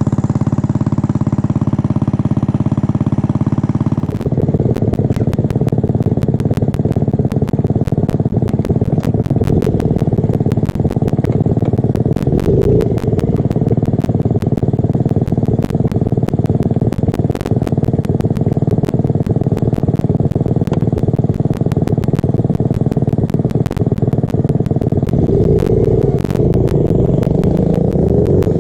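Small mini bike engine idling, then pulling away and running steadily under way from about four seconds in, with a constant rapid clicking and clatter over the engine.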